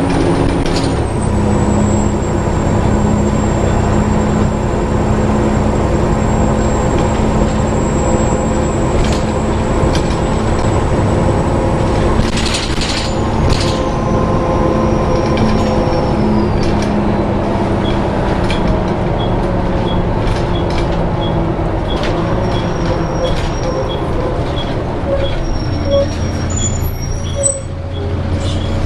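Interior of a Volvo B7TL double-decker bus under way, its engine and drivetrain running steadily, with a thin high-pitched squeal that slides down in pitch and fades, heard twice in the first half. A regular light ticking, about one tick every 0.7 s, runs through the last third.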